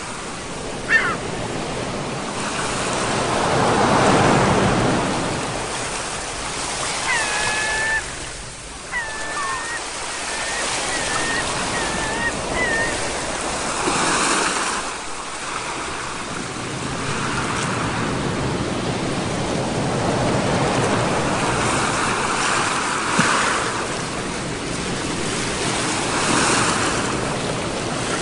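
Sea waves breaking and washing up on a shore, swelling and falling back every few seconds. A few short high-pitched calls sound about a third of the way in.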